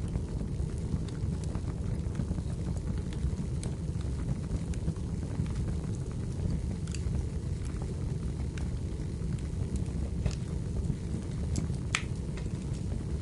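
Wood fire burning in a fireplace: a steady low rumble of the flames with scattered sharp crackles and pops of the burning firewood, one louder pop near the end.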